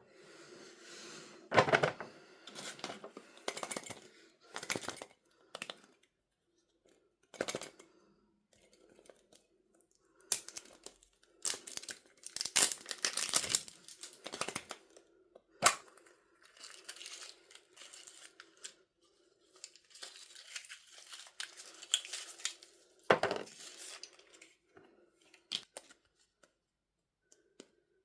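Packaging on a surprise toy being torn open and crinkled by hand, in irregular rustling bursts, with a few sharp taps or clicks along the way.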